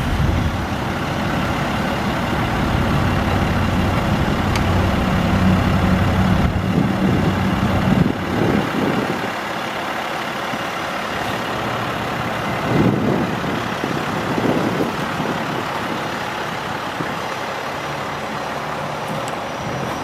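International 7300 truck's DT466 diesel engine running steadily. Its low hum drops off about eight seconds in, leaving a quieter, steadier running sound.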